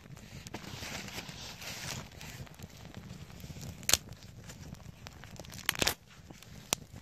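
Crinkly rustling handling noise, followed by a few sharp knocks: a loud one about four seconds in, a short cluster around six seconds, and a last one near the end.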